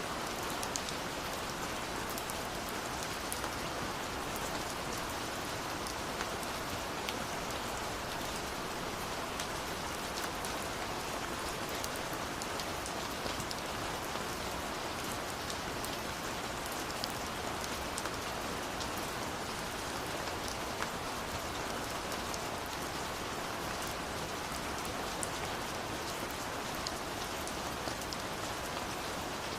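Steady rush of falling water from a waterfall, with scattered small sharp crackles from a wood fire over it.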